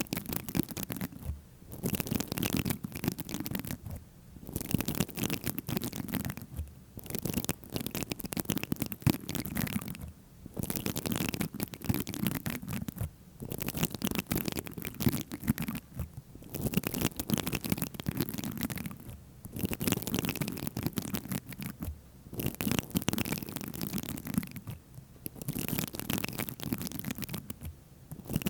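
Close-miked scratching and rustling ASMR sounds, in strokes of two to three seconds with brief pauses between them, about ten times over.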